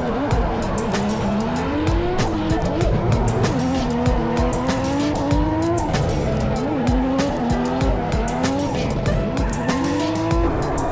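Drift car engine revving up and down repeatedly through a drift, with tyres squealing and skidding.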